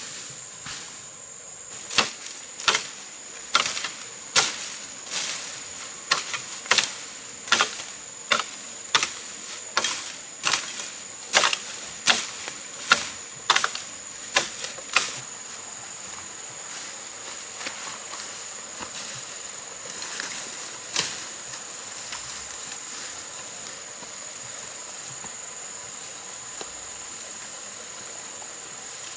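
A run of about twenty sharp striking blows, roughly one and a half a second, from a hand tool chopping or hacking, stopping about halfway through with two more blows later. Insects such as cicadas or crickets keep up a steady high drone throughout.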